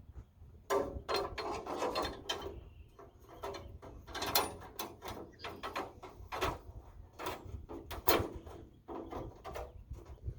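Irregular metal clicks, clanks and rattles from hand work on a Wood-Mizer LX25 band sawmill as its band blade is taken off and a new one fitted, some knocks ringing briefly.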